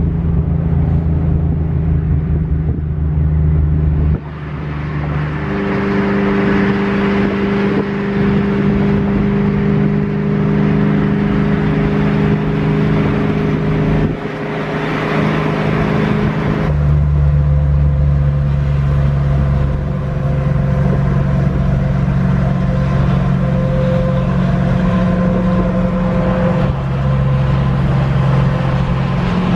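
Ford 5.0 V8 of a Fox-body Mustang GT with a Magnaflow cat-back exhaust, droning at steady cruising revs over wind noise. The pitch and level shift suddenly a few times.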